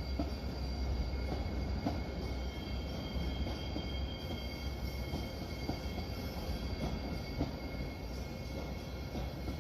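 A train running on steel rails: a steady low rumble with a thin, high wheel squeal over it and scattered light clacks.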